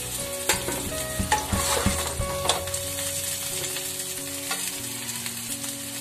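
Parwal and potato pieces sizzling in hot oil in a kadhai, with a steel spatula scraping and knocking against the pan as the fried pieces are lifted out. The knocks come in the first two and a half seconds, and the sizzle carries on after them.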